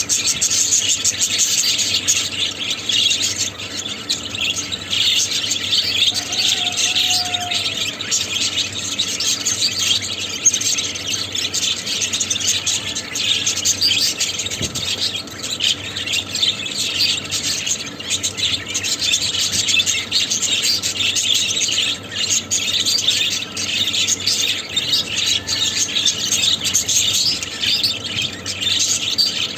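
Budgerigars chattering and warbling, a dense, unbroken stream of fast chirps.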